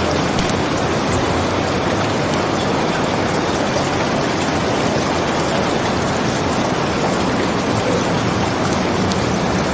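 Steady rain falling, with faint scattered crackles of a wood fire in a fireplace.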